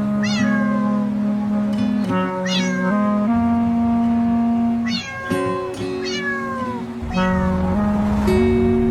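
Several cat meows, each falling in pitch, repeated every second or two over background music of steady held notes.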